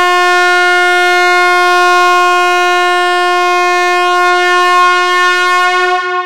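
A loud, single sustained tone held at one steady pitch, rich in overtones, that wavers slightly near the end.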